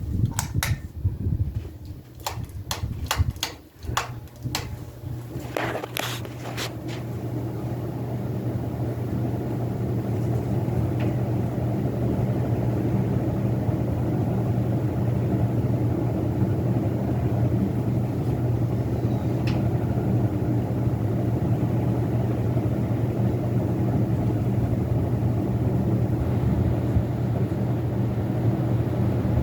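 A run of sharp clicks in the first few seconds, then a Hunter Robbins & Myers Reverse-Aire ceiling fan's motor coming up to speed and running with a steady low hum.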